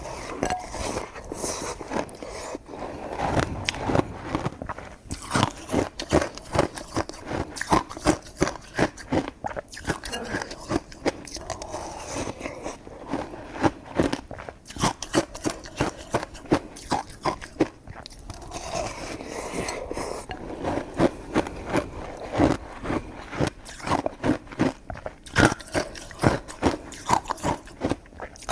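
A person chewing coconut-coated sticky rice cake close to the microphone: quick, wet mouth clicks and smacks, several a second, with no pause.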